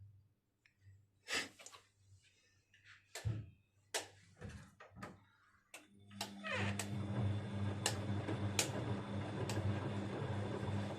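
Clicks and knocks from a Bosch Avantixx 6 front-loading washing machine as it is closed and set. About six seconds in the machine starts running with a steady low hum and a rushing noise, and a few more clicks follow.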